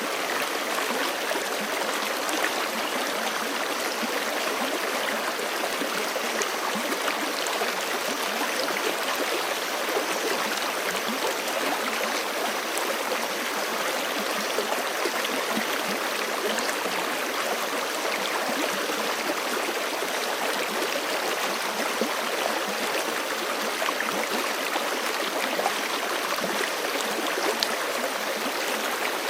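A forest creek flowing steadily over rocks, a continuous even rush and babble of water.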